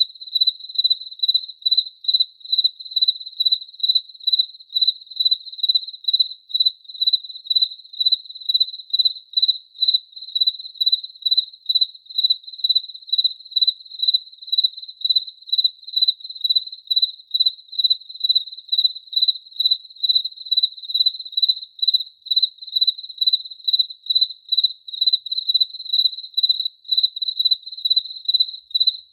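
A cricket chirping steadily: one high-pitched chirp repeated evenly about twice a second.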